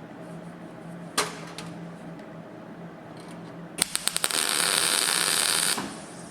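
Welder making a tack weld on a sheet-steel sill panel: a few quick crackling pops as the arc strikes, then a steady hiss for about a second and a half that cuts off. A single sharp knock comes about a second in.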